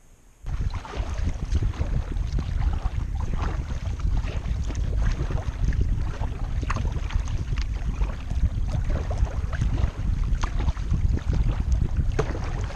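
Heavy wind buffeting the microphone on open lake water, with water splashing and lapping irregularly against a kayak; it starts abruptly about half a second in.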